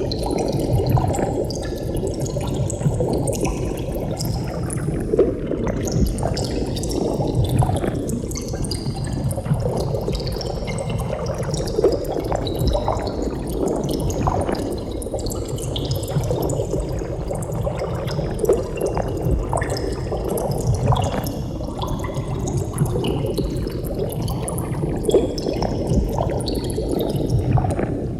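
Water bubbling steadily: a dense stream of small bubbles popping and gurgling, with no pauses.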